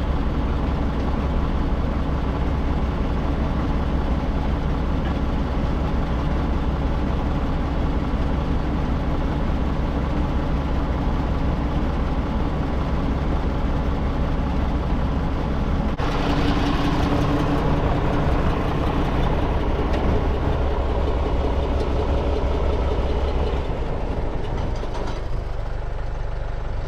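Tractor engine running steadily with a low, even hum; its sound shifts abruptly about sixteen seconds in.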